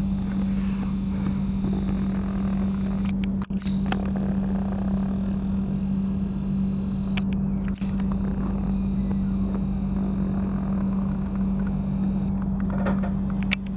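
The engines and machinery of the Victoria of Wight, a hybrid car ferry, run in a steady drone with a constant hum and a low rumble beneath it. A few brief clicks come about a third of the way in, again just past halfway, and near the end.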